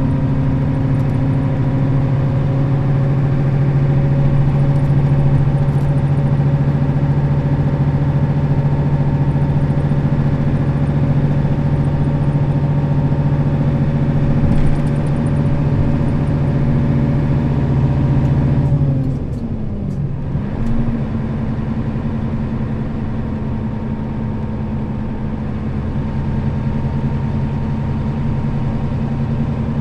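Nissan Diesel KL-RA552RBN route bus's diesel engine running at a steady pitch. About two-thirds of the way through, the engine note falls and gets quieter, then holds steady at the lower note.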